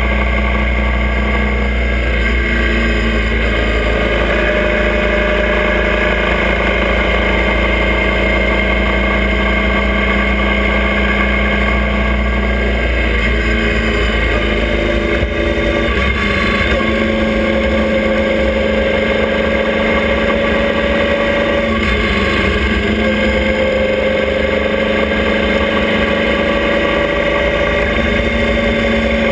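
Motorcycle engine of a sidecar outfit running under way at road speed, with wind noise over the camera. Its note is steady at first, dips briefly about halfway, then rises slowly, drops, and rises again.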